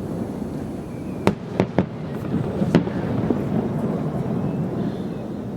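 Fireworks shells bursting: three sharp bangs in quick succession a little over a second in, and a louder one near three seconds in, over a steady low rumble.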